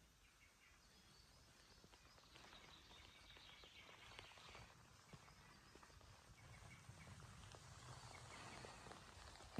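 Near silence: faint outdoor ambience with a few scattered soft ticks.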